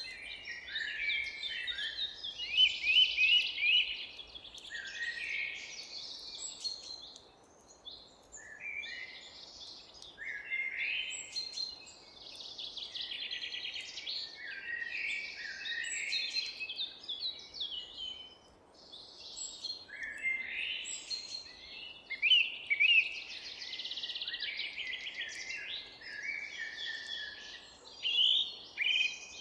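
Several songbirds singing and chirping at once, overlapping quick trills and high chirps in bursts, with brief lulls, over a faint background hiss.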